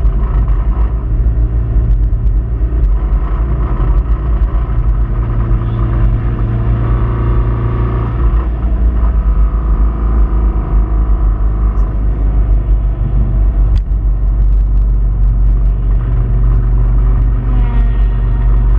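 Subaru Impreza 2.5RS flat-four engine running under load from inside the car, its pitch rising and falling with speed. A rod bearing has failed.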